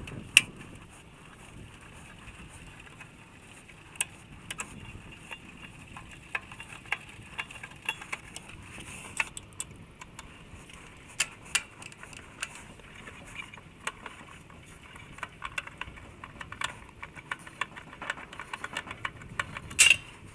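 Irregular light clicks and small metallic taps of hand work on the heater's outdoor-unit parts, with a sharper click about half a second in and another near the end.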